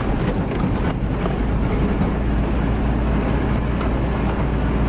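Truck engine running with steady road and rumble noise, heard from inside the cab while driving.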